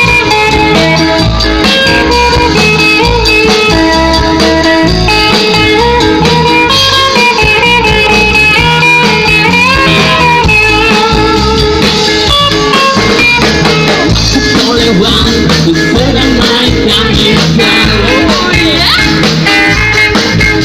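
Band music: an instrumental passage with a melody line over a steady bass and drum beat.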